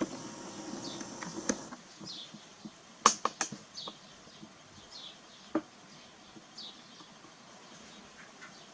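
Young thrush chick giving faint, short, falling chirps, about one every half second to a second, as it is hand-fed. There are a few sharp clicks about three seconds in and one more a little past halfway.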